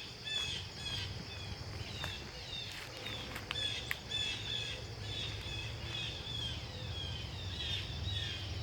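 Several birds calling over and over in short, quick chirps, a few each second, over a steady high insect buzz and the low rumble of wind on the microphone.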